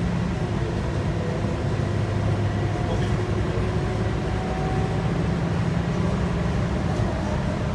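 Scania K230UB bus's 8.9-litre five-cylinder DC9 diesel running under way with road noise, heard from inside the bus as a steady low drone.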